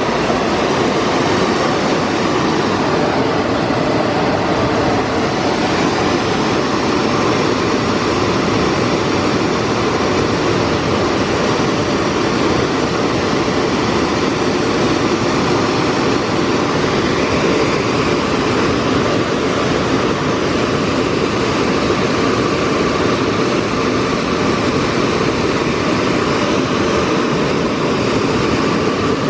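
Car wash blow dryers running steadily, a loud, even rush of air over the car.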